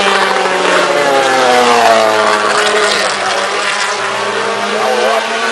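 MotoGP racing motorcycles' 800 cc four-stroke engines at high revs, the pitch falling as a bike passes and then moving up and down with gear changes.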